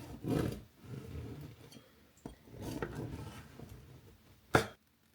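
Handling sounds of loaves of homemade bread being moved on a kitchen counter: irregular rustling and scraping, with one sharp knock about four and a half seconds in.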